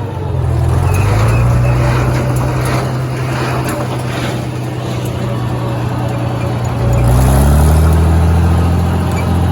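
International Harvester 706 tractor engine running as its PTO drives a New Holland 273 square baler, over the baler's rattling machinery. The engine note sags briefly as the PTO load comes on, then speeds up to a higher steady pitch about seven seconds in.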